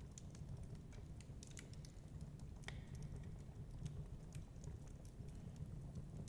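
Wood fire crackling, with irregular small pops and snaps and one sharper snap about two and a half seconds in, over a steady low rumble.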